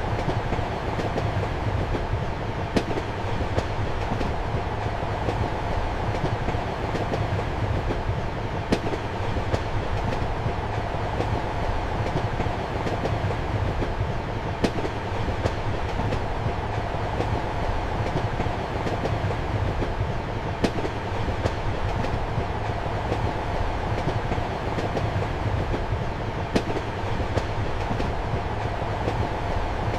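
Passenger train heard from inside a compartment: the steady rumble and hum of the moving train, with wheels clicking over the rail joints and a sharper click about every six seconds.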